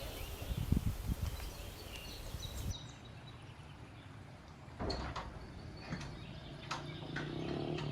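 Outdoor ambience with faint bird chirps and several sharp clicks or knocks. The background changes abruptly about a third of the way in, as at an edit.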